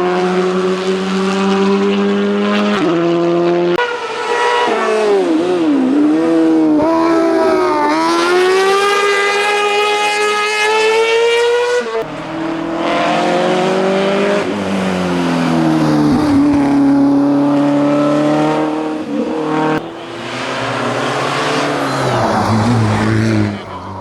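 Hillclimb racing car engines at high revs. The note drops on braking and downshifts, then climbs steadily for several seconds under hard acceleration. The engine sound changes abruptly several times.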